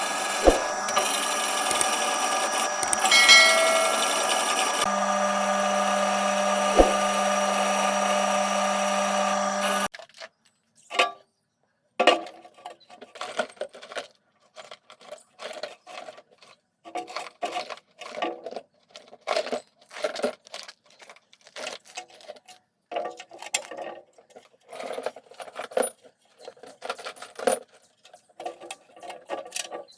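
A steady mechanical whirr, like a small motor or power tool, runs and cuts off suddenly about ten seconds in. It is followed by irregular light metallic clinks and rattles, like small metal parts or tools being handled.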